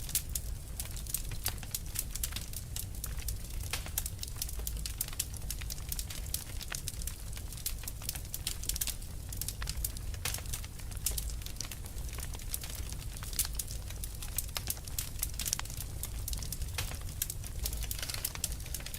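Fire crackling: a steady stream of irregular small pops and snaps over a low, even rumble.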